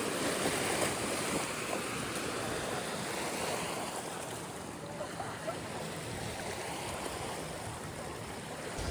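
Steady rushing noise of wind and sea with no distinct events, fading slightly over the stretch.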